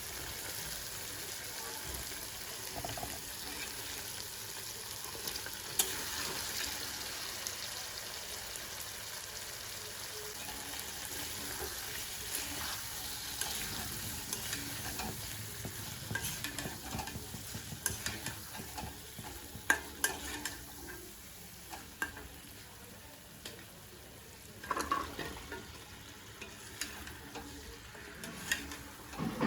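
Food sizzling as it fries in a pan, with a utensil stirring it. The sizzle is steady at first; in the second half sharp clicks and knocks of the utensil against the pan come every second or two.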